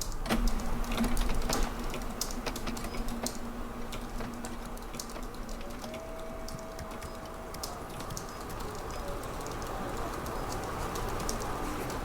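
Typing on a computer keyboard: scattered key clicks over steady office background noise. A steady low hum runs through the first half, then a higher tone holds for a couple of seconds.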